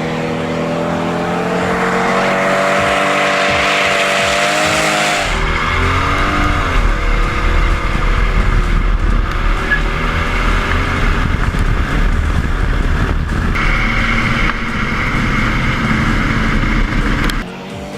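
Mercedes S600's twin-turbo V12 running hard, its pitch climbing slowly. About five seconds in the sound changes suddenly to a heavy low rumble with the revs rising and falling over broad noise, and it cuts off abruptly near the end.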